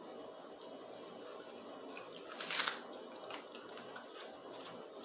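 Faint close-up eating sounds: a person chewing a mouthful of spaghetti with diced mortadella. There is one short, louder noise about two and a half seconds in.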